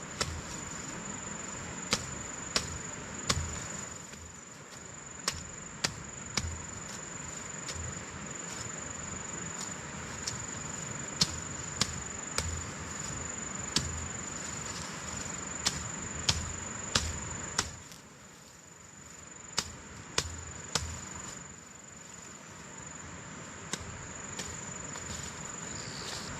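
Steady high-pitched insect trill, like a cricket, with irregular sharp knocks about once a second or less, some with a dull thud beneath them.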